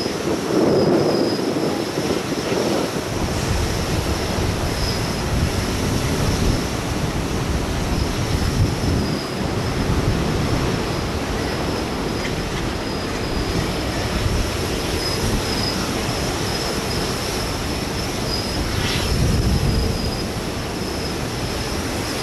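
Jet airliner engines running, a steady rumbling roar, with strong gusty wind buffeting the microphone.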